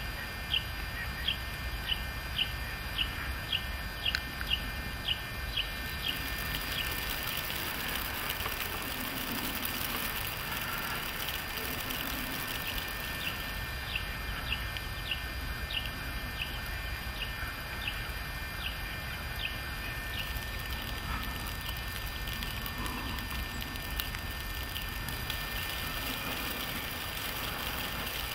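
A small bird calling a long series of short high chirps, about two or three a second, in two runs separated by a pause, over a steady low outdoor rumble.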